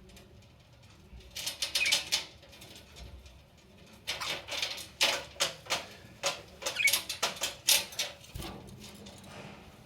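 Budgies chattering in their cage: quick clusters of high chirps and clicks, a short flurry about a second in and a longer, busier run from about four seconds to eight.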